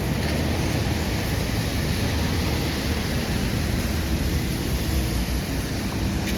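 Steady city street noise: a constant low traffic rumble with a faint hum.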